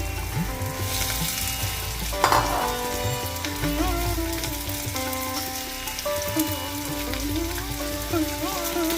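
Food frying in hot oil in a kadhai: a steady sizzle with stirring, flaring up loudly about two seconds in. Instrumental background music with gliding string notes plays over it.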